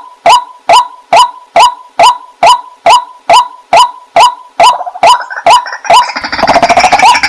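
Waterhen calling: a loud call repeated steadily about twice a second. From about five seconds in, other calls start to overlap, and from about six seconds in they become a dense chorus of many calls at once.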